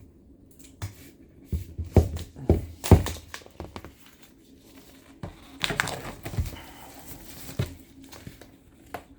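A vinyl record in its plastic wrapping being handled: crinkling plastic with a run of sharp knocks and taps in the first few seconds, then a stretch of rustling about halfway through.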